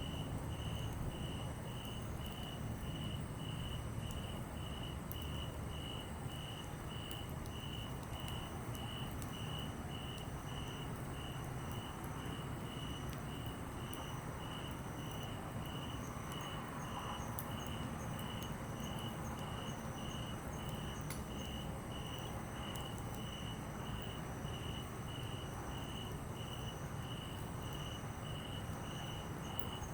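A cricket chirping steadily, about two even chirps a second, with a second fainter insect calling higher up now and then. Under it a steady low rushing noise and scattered faint crackles from a wood campfire.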